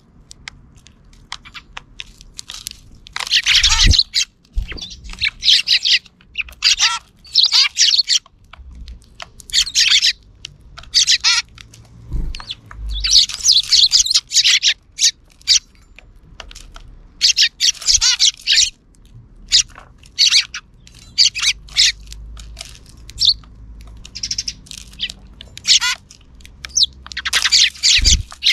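Sparrows chirping in a busy series of short calls, coming in clusters with brief pauses between.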